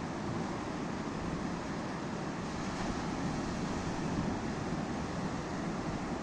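Baltic Sea surf washing onto the shore in wind: a steady, unbroken rush of waves, with wind buffeting the microphone.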